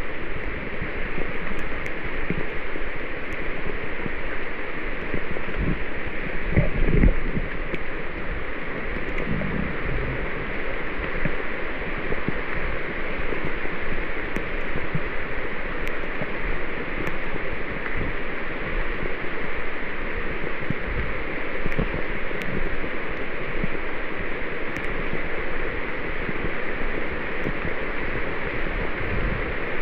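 Heavy tropical rain falling steadily through rainforest foliage, a constant even hiss. A few low bumps about seven seconds in.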